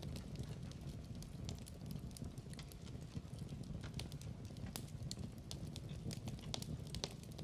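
Wood fire in a fireplace crackling: irregular sharp crackles and pops over a steady low rumble of the burning.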